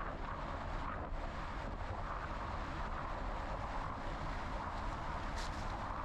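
Steady wind rush on the microphone and rolling tyre noise from a bicycle being ridden, with a low rumble throughout and a brief hiss about five seconds in.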